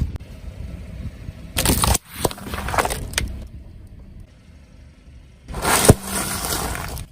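A car's tyres rolling over and crushing objects: bursts of crunching noise with sharp cracks, about two seconds in and again near the end.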